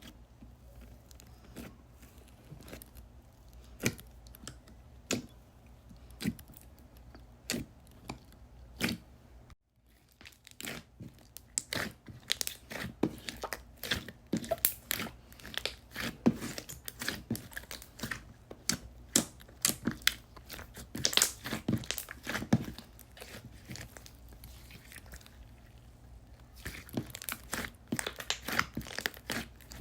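Slime being squeezed, stretched and poked by hand, making sticky clicks, pops and crackles. The clicks are sparse at first, then come quickly and densely after about ten seconds, thin out, and pick up again near the end.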